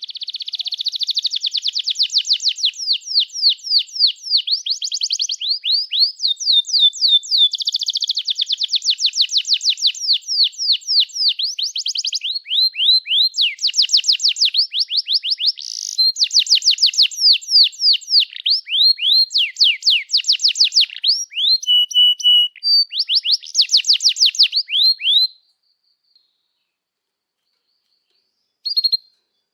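Domestic canary singing a long, continuous song of fast trills: runs of rapidly repeated sweeping chirps that change to a new phrase every few seconds. The song stops about 25 seconds in, and one short note follows near the end.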